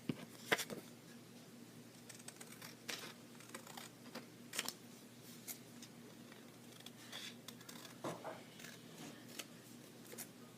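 Hand scissors cutting paper: scattered short, sharp snips spread through, with quiet between them.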